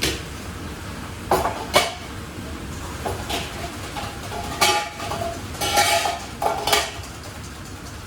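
Pots, pans and metal utensils clattering and clinking in a commercial kitchen: about seven separate knocks, some with a short metallic ring, over a steady low hum.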